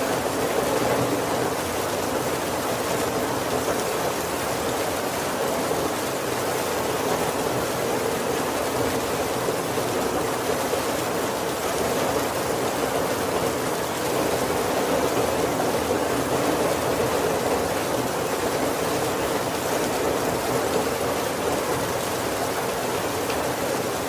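Heavy rain falling steadily on a wooden carriage roof: an even, unbroken hiss with no thunder.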